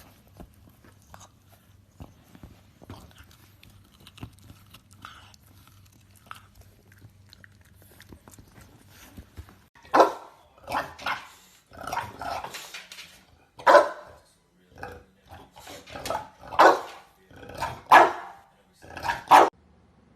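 English bulldog puppy barking: a string of about a dozen short, loud barks starting about halfway through.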